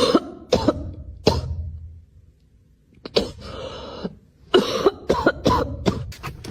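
Coughing or hacking in two bouts: a few sharp coughs at the start, a pause of about a second and a half, then a longer run of coughs.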